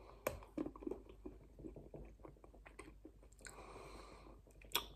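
A person chewing a mouthful of solid chocolate, with faint wet mouth clicks. There is a brief hiss about three and a half seconds in.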